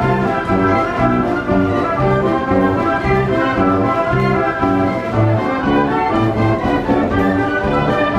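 Wurlitzer 157 carousel band organ, built in 1918, playing a tune with pipes sounding like a brass band over a steady alternating bass-and-chord beat.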